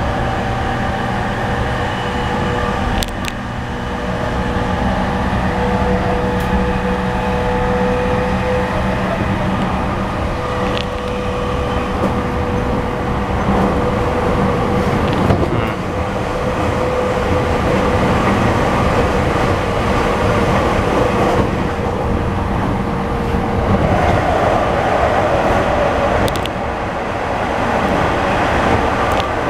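E231 series suburban electric train running at speed, heard from inside the passenger car: a steady wheel-and-rail rumble with a constant whine and a few sharp clicks from the track.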